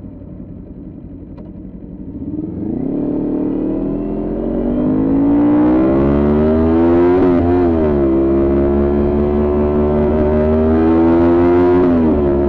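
Kawasaki Ninja 400 parallel-twin engine, quiet and low for the first two seconds, then rising in pitch and loudness as the bike accelerates. The note drops briefly at an upshift about seven seconds in and pulls up again, with another shift near the end.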